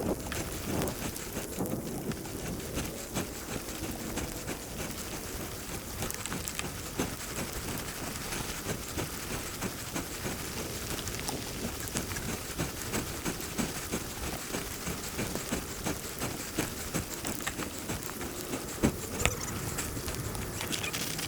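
Rain pattering steadily, a constant hiss peppered with many small ticks.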